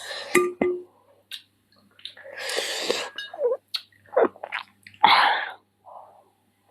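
Close-up eating mouth sounds from chicken feet curry with rice: a string of short, irregular chewing and sucking smacks, with one longer breathy noise about two seconds in.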